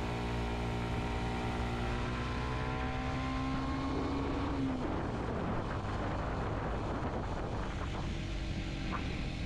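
Kawasaki Z125's single-cylinder engine running under steady throttle, its pitch creeping up slightly. About halfway through the engine note falls away and an even rushing noise is left.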